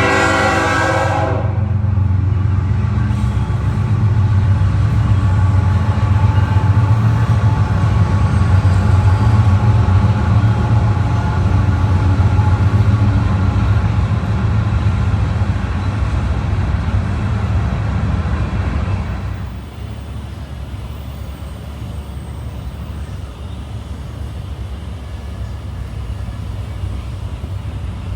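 A Florida East Coast Railway train passing. A horn blast cuts off about a second in, then the diesel locomotives rumble loudly by. About nineteen seconds in the engine sound drops away, leaving the lower steady rumble of the cars rolling on the rails.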